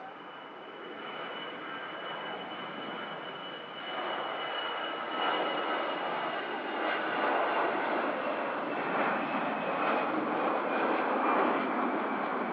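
Jet airliner's engines heard as it passes, with a steady rushing noise and a high thin whine. The noise grows louder from about four seconds in and stays loud.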